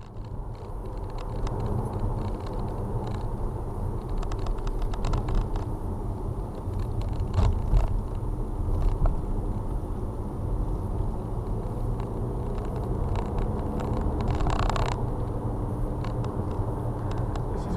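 Car engine and road noise heard from inside the moving car: a steady low rumble with small rattles and clicks. A short rushing sound comes near the end.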